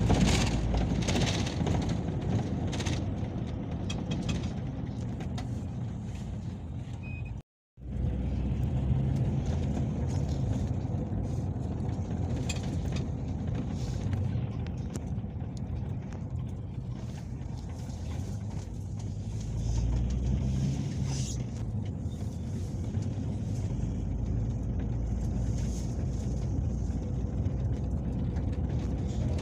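Peugeot Boxer minibus cabin noise while driving: a steady low engine and road rumble. The sound drops out completely for a moment about seven seconds in.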